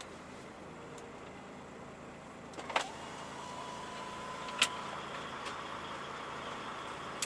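Steady hum of a DAF 105 truck idling, heard inside the cab, with two sharp clicks about three and four and a half seconds in.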